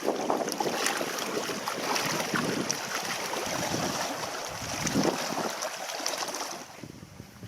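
Water splashing and sloshing against a canoe, with wind noise on the microphone; it drops away suddenly near the end.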